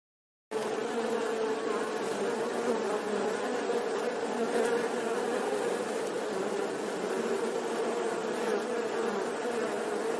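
Flying insects buzzing in a steady, even hum, starting suddenly about half a second in and cutting off abruptly at the end.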